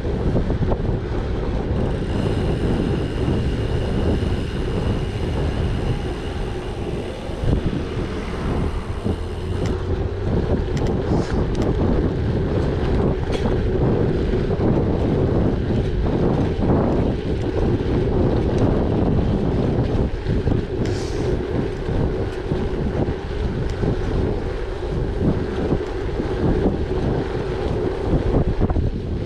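Wind buffeting the microphone over the rumble of a gravel bike's tyres rolling on a gravel track. A high, steady buzz joins in from about two seconds in until about ten seconds in.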